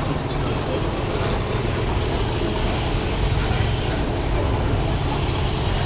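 Steady low rumble of motor-vehicle engines, with an even background hiss and no speech.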